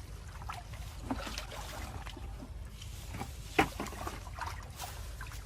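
Water sloshing and splashing with scattered small knocks, and one sharp knock about three and a half seconds in, over a steady low rumble.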